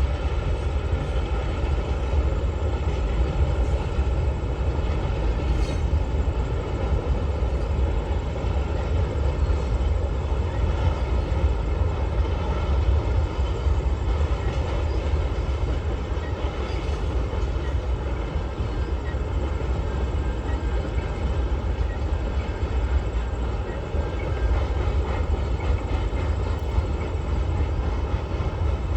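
Long freight train rolling past, its wagons making a steady, unbroken rumble on the rails.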